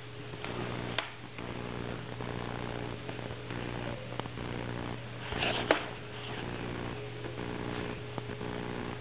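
Puppy playing: a single short yip about five and a half seconds in, over a steady low electrical hum with a pulsing drone and a faint click about a second in.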